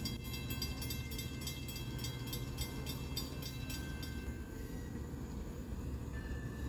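Steady low rumble of an approaching Long Island Rail Road diesel push-pull train, a C3 bilevel cab car leading. A level-crossing bell rings in fast, even strikes and stops about four seconds in. A faint horn note begins near the end.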